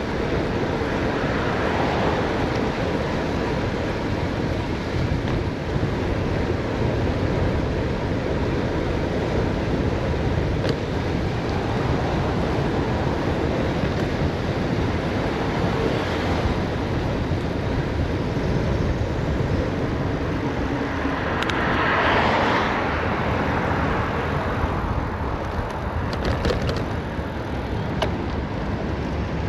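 Steady rush of wind on the microphone and road noise from a bicycle coasting downhill, with a brief louder swell about two-thirds of the way through.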